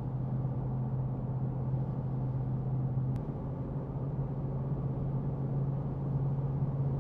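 Ford Mustang GT's 5.0-litre V8 cruising at a steady speed, heard from inside the cabin as a steady low drone over road noise. There is a faint click about three seconds in.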